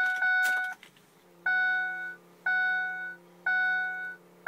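The Ford Powerstroke diesel truck's dashboard chime sounds about once a second, a single pitched tone each time. From about a second in, a steady low hum joins it: the electric fuel pump priming after the key is turned back on for a cold start.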